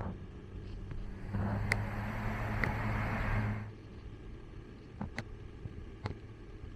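A motor vehicle's engine running with a steady low hum, joined by a louder rush of noise from about a second and a half in, the two stopping together after about two more seconds. A few sharp clicks or knocks follow.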